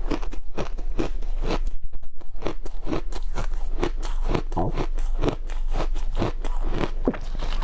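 Powdery ice snowballs being bitten and chewed close to the microphone: a quick run of loud, crisp crunches, several a second, as the packed ice breaks between the teeth.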